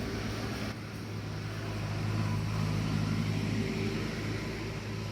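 Steady engine hum with a low drone over an even hiss, swelling slightly in the middle.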